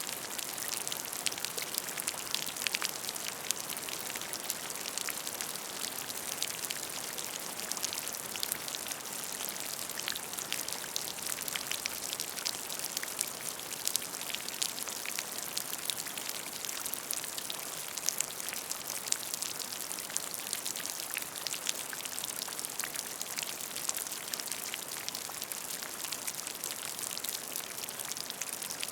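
Steady rain falling on a puddle of water: a continuous hiss with many small drop splashes.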